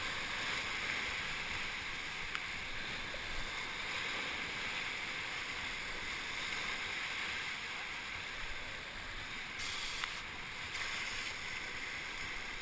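Whitewater river running high, at about 3000 cfs, rushing steadily. Two faint knocks, one a couple of seconds in and one near the end.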